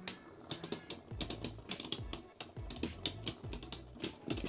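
Two Beyblade Burst tops spinning and clashing in a stadium: a quick, irregular run of sharp clicks and clacks.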